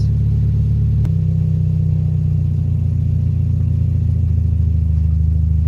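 Vehicle engine idling steadily, with a faint click about a second in after which the engine note changes slightly.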